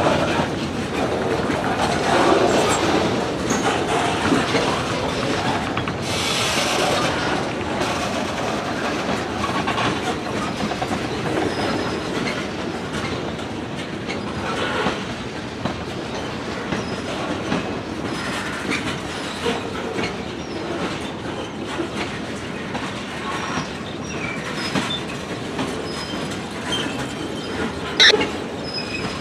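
Freight cars rolling past, their wheels clicking over rail joints, with faint wheel squeal now and then and one sharper loud clack near the end.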